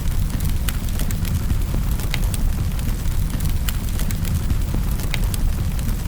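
Wood fire burning in a fireplace: a steady low rumble with irregular sharp crackles and pops, several a second.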